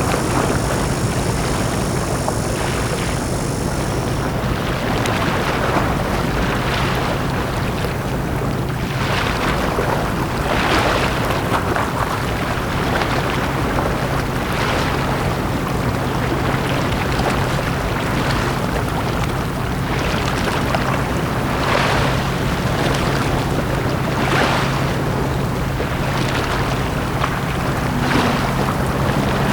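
Small sea waves breaking and washing onto a beach, a swell every couple of seconds, over a steady low hum.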